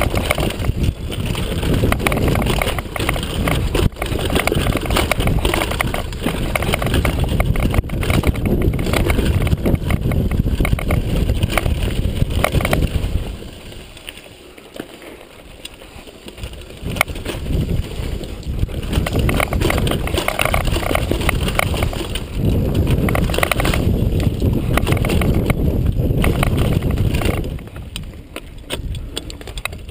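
Downhill mountain bike rattling and clattering over a rough trail at speed, with a constant rumble of wind and terrain noise. It goes much quieter for a few seconds about halfway through, then the clatter resumes.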